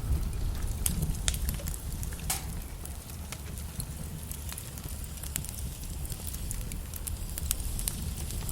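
Wood logs burning in a fireplace: scattered sharp crackles and pops at irregular intervals over a steady low rumble of the flames.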